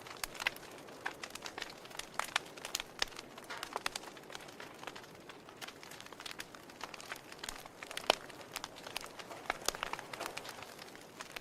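Wood fire in a fireplace crackling: irregular sharp pops and snaps from the burning logs over a soft hiss, with one louder pop about eight seconds in.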